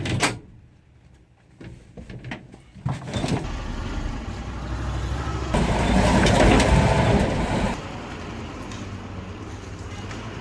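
A few knocks, then a vehicle engine running from about three seconds in; it gets louder for about two seconds near the middle, then settles back to a steady run.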